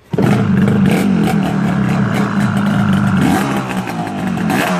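1986 Yamaha RZ350's two-stroke parallel twin on DG expansion-chamber pipes catching on a kick and running, loud and crackly. Its pitch rises briefly twice in the second half as the throttle is blipped.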